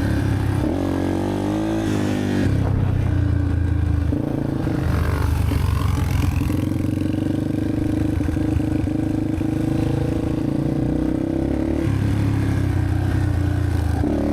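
Several dirt bike engines running together at idle, with a rev rising in pitch about a second in and another around five seconds in.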